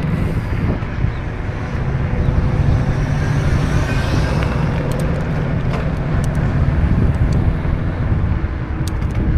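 Wind on the microphone and road noise during a bicycle ride along a street, a steady low rumble with a few light clicks around the middle and near the end.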